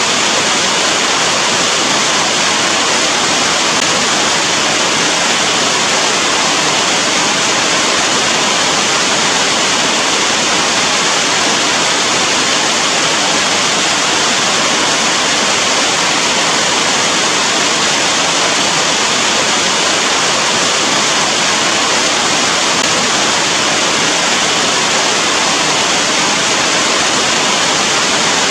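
Steady rain falling, an even dense hiss with no single drops, thunder or other events standing out.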